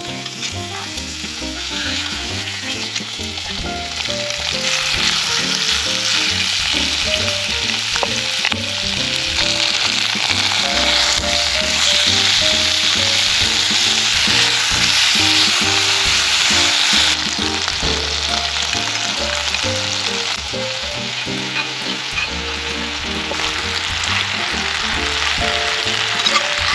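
Food frying and sizzling in a hot pan, the sizzle growing louder a few seconds in and holding strong, under soft background music.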